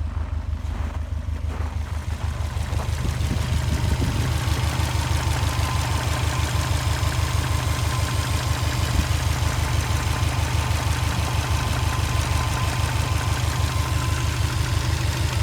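Subaru EJ255 turbocharged flat-four engine idling with a small knock whose source is unclear. Others judge it most likely a piston pin in one of the pistons.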